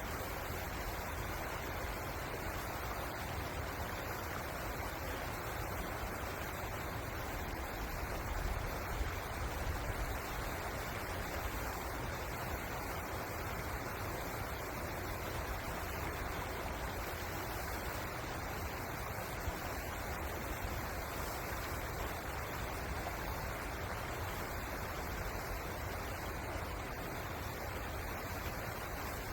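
River water rushing steadily, an even noise with a low rumble beneath it and a few slight swells about eight to ten seconds in.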